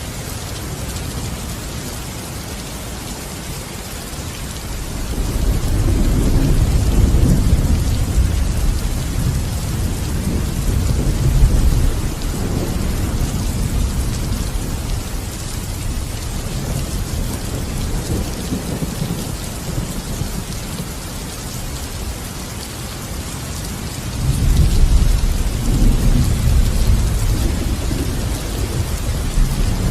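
Steady rain with rolling thunder: a long low rumble builds about five seconds in and lasts several seconds, and another rolls in near the end.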